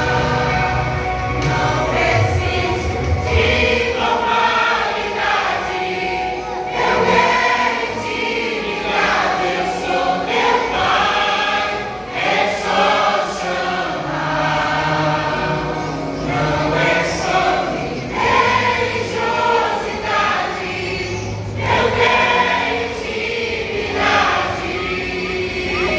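A vocal group singing a gospel song together, several voices at once, with deep low notes under the voices for the first few seconds.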